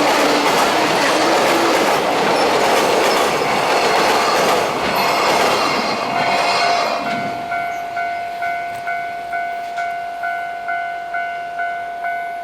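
Freight train wagons rolling past with clattering wheels, then fading away about six seconds in. As the noise fades, a railway level crossing alarm is heard ringing: a steady electronic ding repeating about twice a second.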